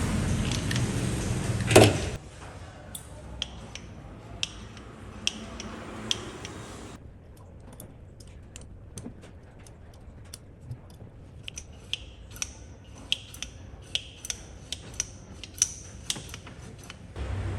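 Scattered light clicks and clinks, like small hard parts being handled, sparse at first and more frequent in the second half. Before them, a steady low hum cuts off with a sharp knock about two seconds in.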